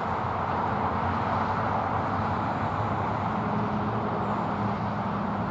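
Steady road-traffic noise, a constant even rumble with a low hum. Faint, thin, high-pitched chirps recur over it about once a second.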